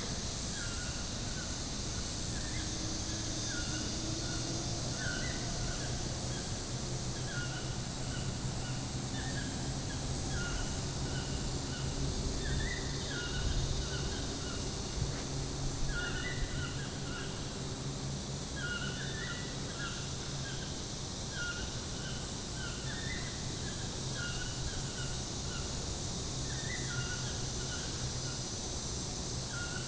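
Birds in tropical forest giving short chirping calls in little groups every few seconds, over a steady high hiss. A few low bumps come about halfway through.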